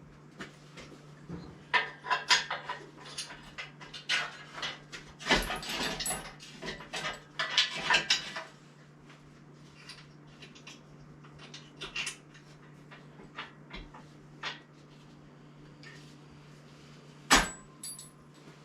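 Metal clanking, clinking and rattling of tools and engine parts as a car engine is worked free: a flurry of knocks in the first half, sparser after, and one sharp knock near the end, over a steady low hum.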